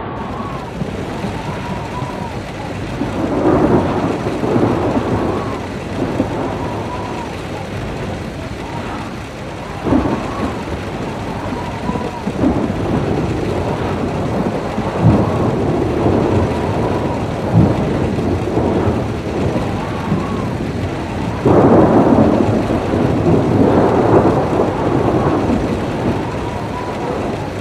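Thunderstorm: steady rain with rolling thunder that swells twice, a few seconds in and again about three-quarters through, with a few short sharp cracks in between.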